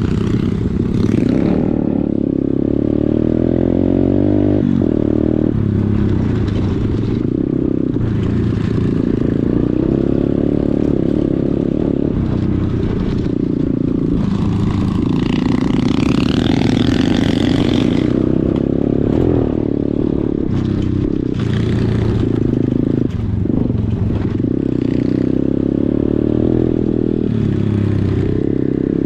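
Pit bike engine running under way, its revs rising and falling. About halfway through, a higher, wavering engine whine comes in for a few seconds.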